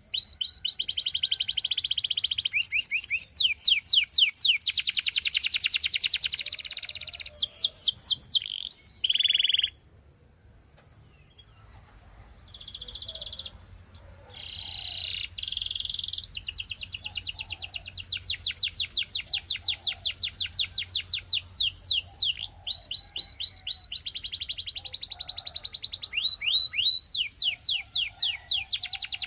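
Canary singing: fast trilled runs of repeated high notes, each a quick downward sweep, changing from one run to the next. The song stops for about two seconds a third of the way in, then resumes with short phrases and more long trills.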